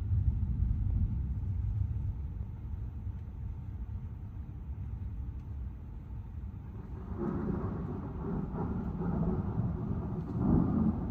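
Car driving on wet city streets: low road and engine rumble, strongest in the first few seconds, with a louder rushing noise in the last four seconds.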